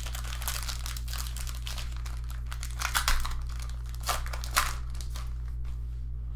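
Foil trading-card pack wrapper crinkling as it is handled and torn open, with sharper crackles about three seconds and four and a half seconds in. A steady low electrical hum sits underneath.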